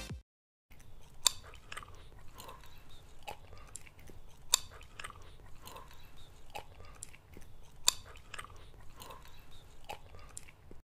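Close-miked chewing of food, with an irregular run of wet crunches and clicks of the mouth and a few sharper, louder bites among them.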